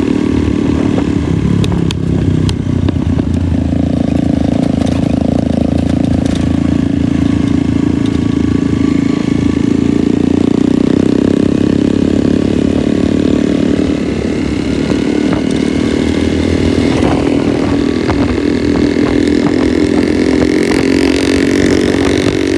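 Motorcycle engine running steadily while riding, its pitch shifting only slightly, with a rough rumble of road and wind noise underneath.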